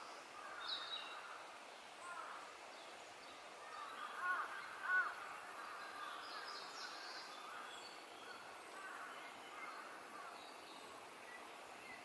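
Birds calling faintly over a steady outdoor hiss: scattered short calls, the loudest a pair about four and five seconds in.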